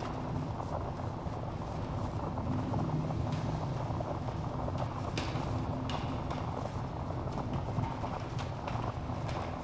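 Wood fire burning in a fireplace: a steady low rumble of flames with scattered sharp crackles and pops from the logs, the loudest snaps a little after five seconds in.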